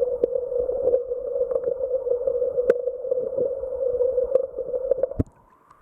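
Small stream trickling and gurgling, full of little splashes and pops; it cuts off abruptly about five seconds in.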